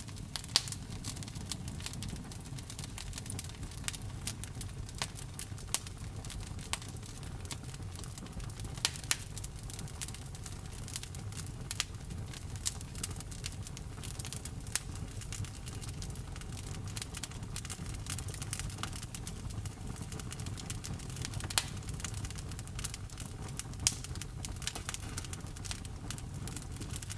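Wood fire burning: a steady stream of irregular crackles, with a few sharper, louder pops from the burning wood, over a low steady rumble.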